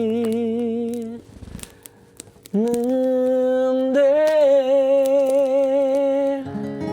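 A man's singing voice holds the last note of the song with vibrato and breaks off about a second in. After a short pause he sings a long, steady wordless note, hummed. Near the end a chord of several steady notes rings.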